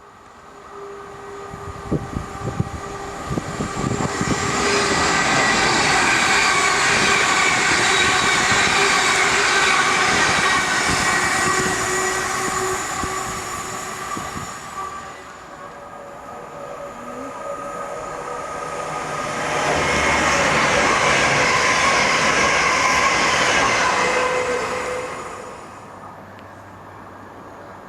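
Trains on the rails: a few wheel clacks, then two loud passes of wheel and rail noise, the first about four seconds in and the second about twenty seconds in, each with a steady whine over it.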